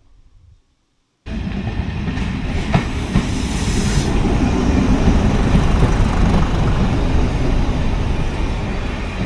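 Diesel train on the heritage Swanage Railway running along the line, a steady heavy rumble of engine and wheels with a few sharp clicks from the track. The sound cuts in abruptly about a second in.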